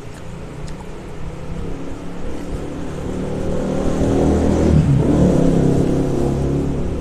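A motor vehicle's engine passing by, growing louder to a peak about five seconds in and then fading a little.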